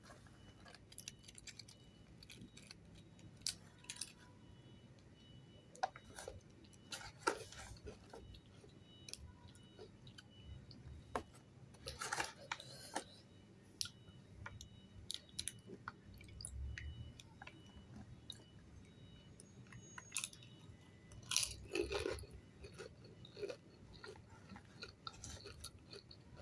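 Crisp pani puri shells crunching as they are filled, bitten and chewed close to the microphone, with scattered short clicks and crunches.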